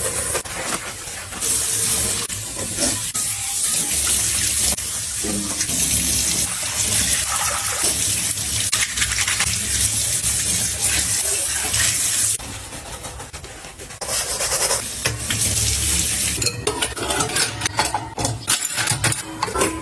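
Water running from a kitchen tap into a sink in a long stretch, stopping briefly after about twelve seconds, then running again with clinks and knocks of items being handled near the end.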